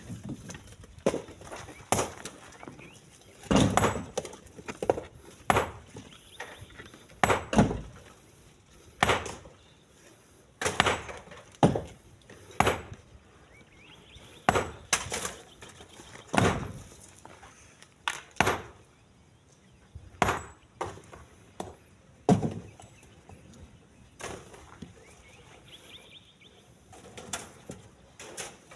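Split stones being loaded by hand into a truck bed, landing one at a time with sharp knocks and clatter about every one to two seconds at an irregular pace.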